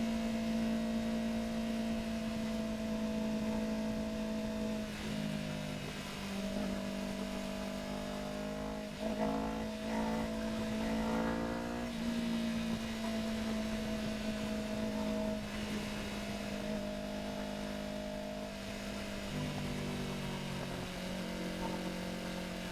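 Yamaha R3's parallel-twin engine running under way, mostly a steady note. Its pitch shifts with throttle and gear changes about a quarter of the way in, rises a few times around the middle, then holds steady and drops near the end.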